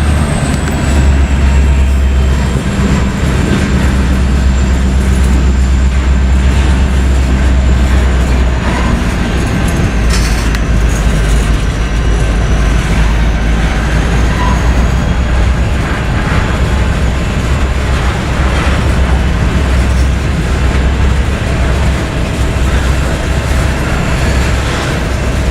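Freight train rolling past close by: a loud, steady rumble of wheels on the rails, with a thin high wheel squeal that slowly falls in pitch.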